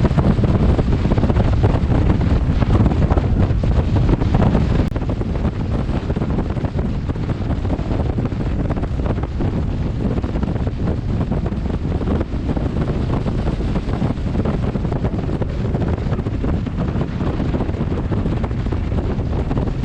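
Heavy wind rushing and buffeting over a helmet-mounted camera's microphone on a motorcycle at riding speed. It is a steady, deep rush, easing slightly about five seconds in.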